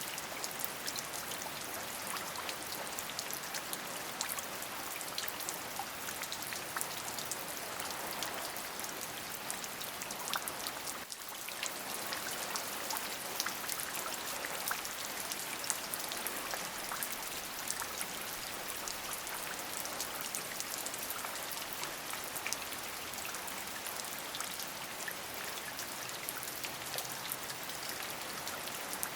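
Steady rain falling, an even hiss strongest in the high range with many individual drop ticks, and a brief dip in level about eleven seconds in.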